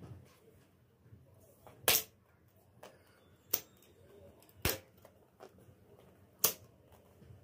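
Four sharp taps, spread irregularly about one to two seconds apart, with a few fainter ticks between, over faint room tone.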